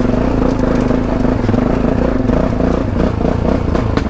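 Adventure motorcycle engine running at steady low revs, with a click or two of clatter; the pitch wavers briefly about three seconds in.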